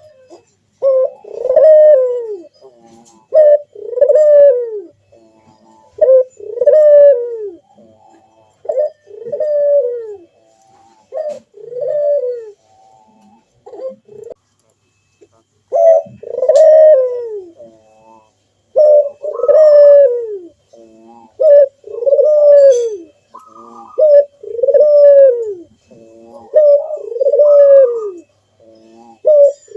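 Puter (ringneck dove) cooing loudly. A deep coo repeats about every two seconds, each one falling in pitch at its end, with a brief lull partway through.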